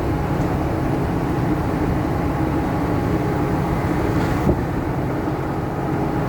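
Tractor-trailer's diesel engine running steadily under light power, cruising in ninth gear, with road noise, heard from inside the cab.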